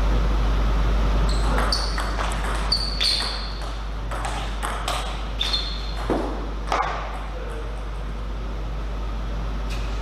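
Table tennis rally: the celluloid ball clicking sharply off the rackets and the table, about a dozen hits in quick succession between about one and seven seconds in, with one more near the end, over a steady low hum.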